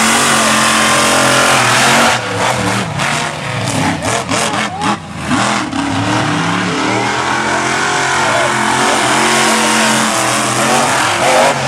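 Monster truck engines revving hard during a race, their pitch rising and falling. Between about two and five seconds in, the engine noise breaks up into a string of sharp cracks and short drops before steady hard running resumes.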